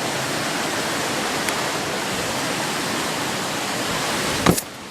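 Steady rush of flowing stream water. About four and a half seconds in there is a sharp knock, and the rushing drops quieter for a moment.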